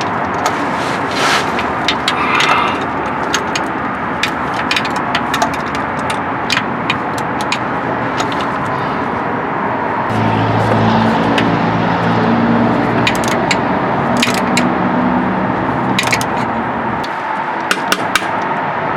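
Sharp metallic clicks and scraping of hand tools working a bolt on the car's underside, over a steady noisy background. About ten seconds in, a low engine hum comes in and stops some seven seconds later.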